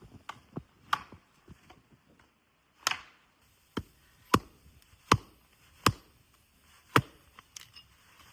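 Wood being chopped: a run of sharp strikes, about six loud ones roughly a second apart in the second half, after a few lighter knocks.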